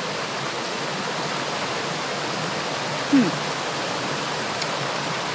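Waterfall water rushing steadily. A short voice cuts in briefly about three seconds in.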